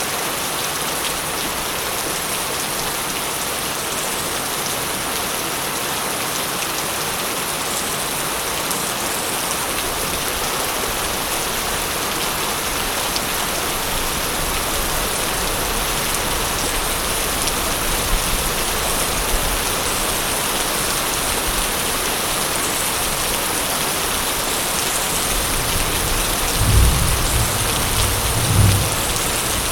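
Steady rain falling, an even hiss throughout. Low thunder rumbles in over the second half and swells twice near the end.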